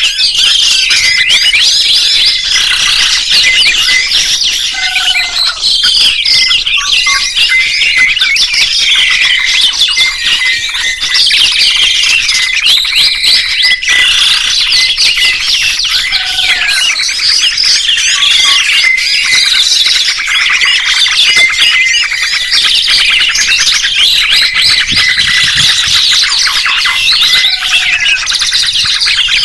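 Songbirds chirping and trilling loudly and without pause, many calls overlapping. A short lower note recurs about every eleven seconds.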